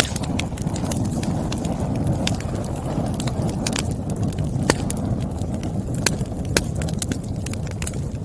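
Wood fire burning, the logs crackling with frequent irregular sharp pops over a steady low rushing sound.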